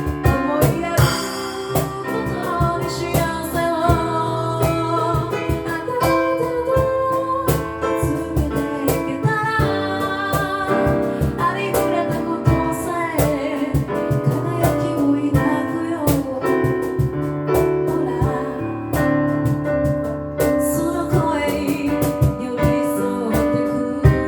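A cappella group singing a pop ballad in harmony: a lead voice over held backing chords and a sung bass line, with vocal percussion keeping a steady beat.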